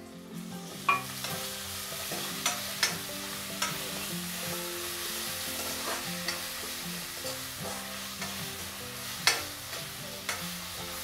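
Onions, chillies and crushed ginger-garlic sizzling in hot mustard oil in a kadai while a metal ladle stirs them, with a steady hiss and several sharp scrapes and taps of the ladle on the pan, the loudest about a second in and near the end.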